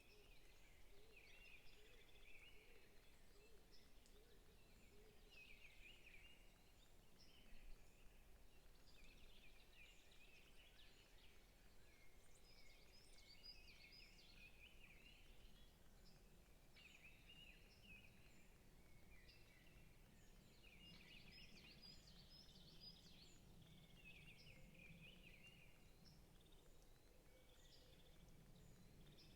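Faint chorus of forest songbirds chirping and twittering, in short overlapping bursts every second or two.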